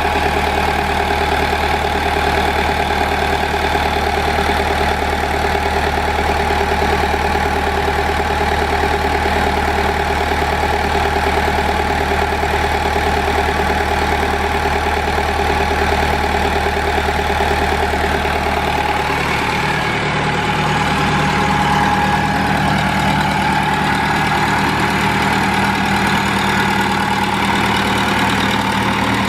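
Case DH4 articulated trencher backhoe's engine running steadily at idle; its note shifts about two-thirds of the way through, the deepest part dropping away as higher tones strengthen.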